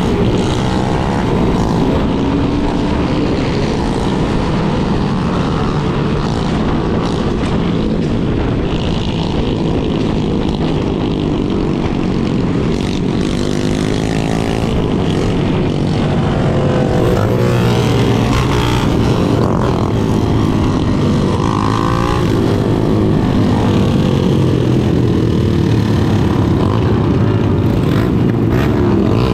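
Motorcycles riding in a group: engines running over a steady low rumble, with several engines rising and falling in pitch at once, most clearly in the middle stretch.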